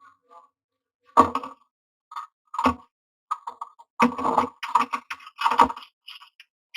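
A common myna moving about inside a nest box, its feet and beak making irregular clicking, knocking and scraping sounds in short clusters. The clusters come thickest past the middle.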